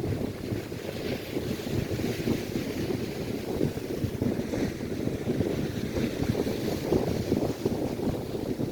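Gusty wind buffeting the microphone with a rough, uneven rumble, over the steady hiss of lake waves breaking and washing on the shore, which swells now and then.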